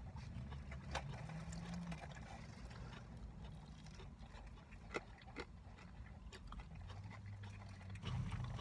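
A person chewing fried food, with a few soft mouth clicks and smacks, over a low steady rumble inside a car.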